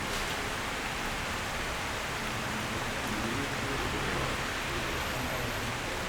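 Steady rain, an even wash of noise with no single drops standing out.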